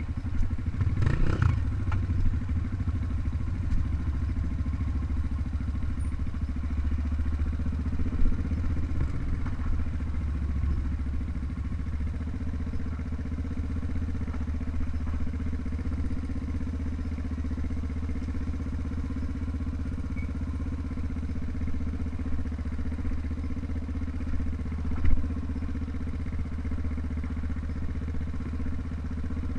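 Trail motorcycle engine running steadily, with a brief rise in engine sound about a second in and a single sharp knock near the end.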